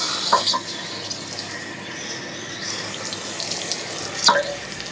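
Water rushing steadily out of an RV water heater tank as it is flushed with hose water to wash out sediment, with a few brief knocks or splashes, the loudest near the end.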